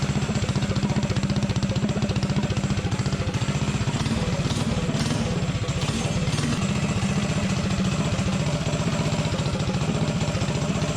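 Tillotson 212 single-cylinder four-stroke mini bike engine idling steadily, just after firing up on the first pull while running on nitro RC car fuel.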